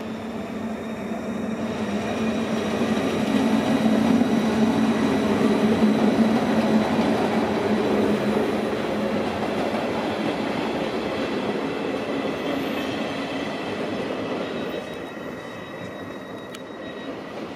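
Three-car RBDe 560.4 electric multiple unit pulling out and passing close by, its wheel and running noise building to a peak around the middle and then fading as it draws away down the line. A thin, steady high whine runs underneath.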